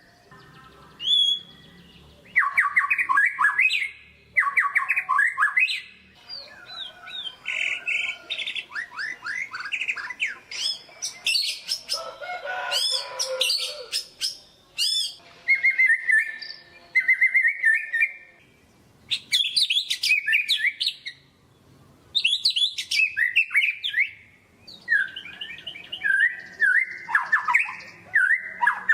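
White-rumped shama (murai batu) singing a loud, varied song of rapid whistled phrases and trills, in bursts broken by short pauses.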